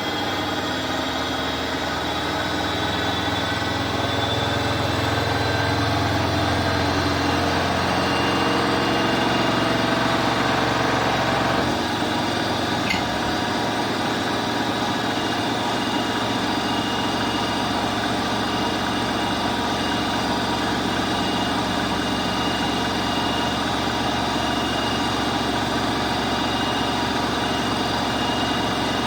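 Bosch Aqua Star washing machine running, its motor and drum giving a steady hum with several whining tones. About twelve seconds in, the low rumble drops away and the running settles into a steady, slightly different sound.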